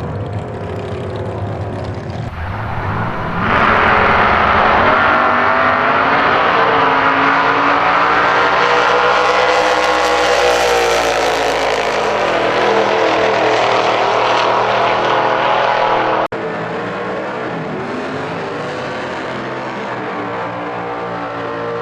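V8 race engine of a drag-racing Holden Torana running hard, its pitch rising and falling. It jumps sharply louder a few seconds in and stays loud for about twelve seconds. It then breaks off abruptly, and a quieter engine note carries on.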